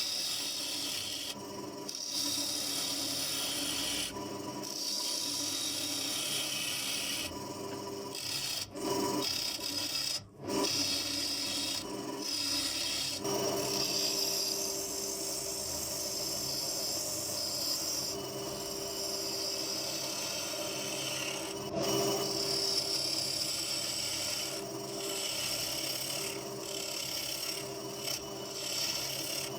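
Wood being cut on a lathe: a spinning bird cherry blank worked with a turning tool, making a steady scraping hiss over the lathe's hum. The cut breaks off briefly a few times, most clearly about ten seconds in.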